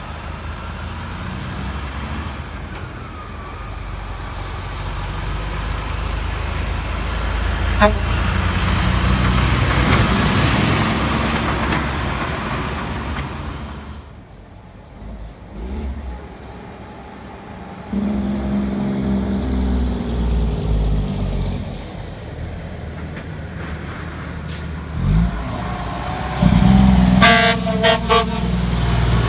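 Heavy trucks and traffic passing on a wet street, tyres hissing as a vehicle goes by and a diesel engine pulling past. Near the end, a horn gives several short toots.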